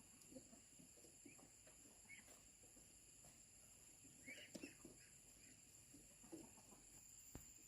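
Near silence, with a few faint bird chirps, the clearest cluster about four and a half seconds in.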